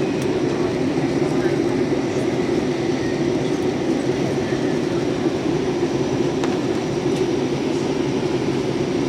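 Steady cabin noise of an airliner in flight: the low, even rumble of the engines and airflow heard from inside the passenger cabin.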